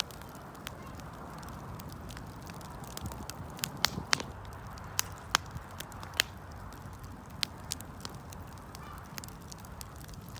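Campfire crackling: irregular sharp pops and snaps of burning wood, a few louder ones in the middle, over a steady low rush of the flames.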